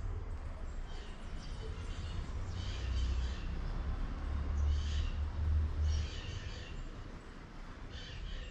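Birds chirping in several short bursts over a steady low rumble.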